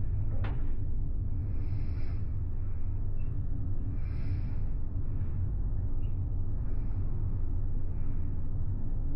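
Steady low rumble of a large ferry's engines and hull vibration heard from inside a cabin while under way. A soft hiss swells and fades every two to three seconds, with a short click near the start.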